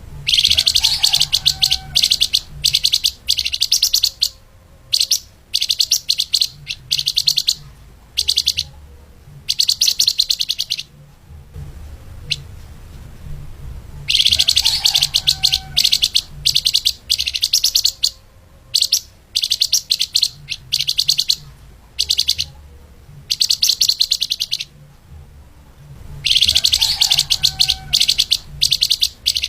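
Flamboyan (lemahan) songbird singing a fast, dense, high-pitched trilling song in repeated bursts of about a second, with short pauses between them, over a low hum.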